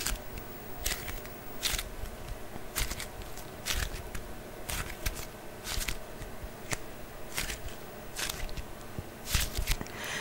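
Close-miked ASMR trigger sounds: hands handling an object, making short scratchy strokes at an uneven pace of about one a second, with soft low thumps.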